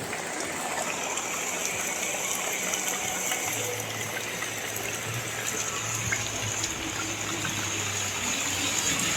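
Steady rain falling, an even hiss throughout; a low hum comes in about three and a half seconds in and drops away near the end.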